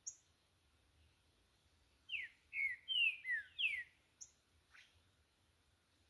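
Green-winged saltator (trinca-ferro) singing: a phrase of five loud descending whistled notes about two seconds in, with a short high chirp at the start and another just after the phrase.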